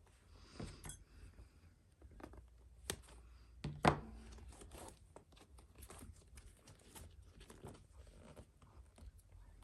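Leather baseball glove being handled while its web lacing is undone: scattered rustling and light scraping of leather and lace, with a sharp knock about four seconds in.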